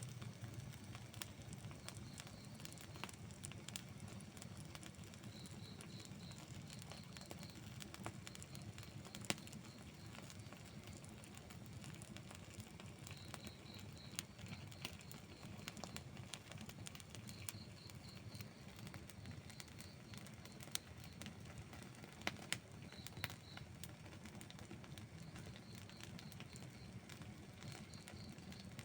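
Outdoor wood campfire burning: a low, steady rumble of flames with scattered crackles and a few sharper pops. A faint high chirp in short runs of notes repeats every few seconds.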